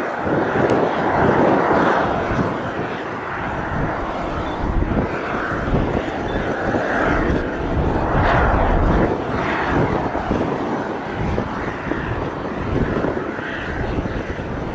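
A departing airliner's engines running at takeoff power: a steady rushing noise that swells and eases, with wind buffeting the microphone.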